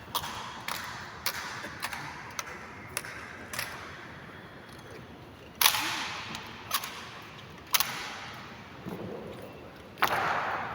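Honor guard drill: sharp heel clicks in an even slow march, about one every half second, then a few louder, ringing clacks and stamps of the ceremonial rifle drill.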